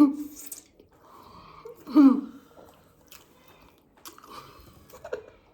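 Close-up mouth noises of a person chewing and smacking while eating, with two short vocal sounds, one at the start and a louder one about two seconds in.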